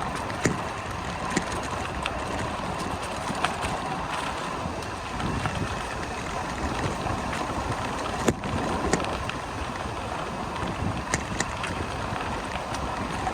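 Bicycle rolling along an unpaved towpath: steady tyre and wind noise on the microphone, with scattered sharp clicks and knocks from bumps, the loudest a little past eight seconds in.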